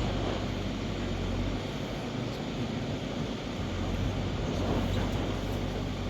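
Heavy machinery's diesel engine running steadily, a low, even hum.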